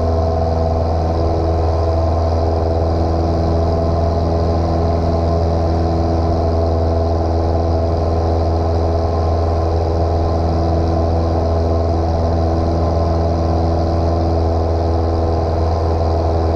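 Small piston airplane engine running steadily, a constant drone with a strong low hum and no change in pitch.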